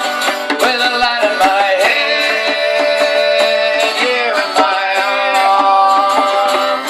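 Live folk band playing an instrumental passage between sung lines, with a lead melody bending in pitch over steady sustained accompaniment.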